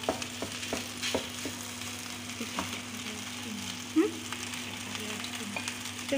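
Cooked rice and egg frying in a frying pan, a steady sizzle, with clicks and scrapes of a metal spoon against a plate as the rice is scraped into the pan; the sharpest click comes about four seconds in.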